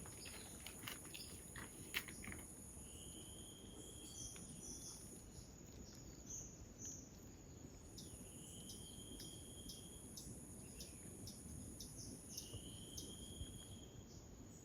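Faint rainforest insect chorus: a steady high buzz that drops out for a couple of seconds midway, then resumes. Over it come three short, slightly rising high calls and a few light ticks.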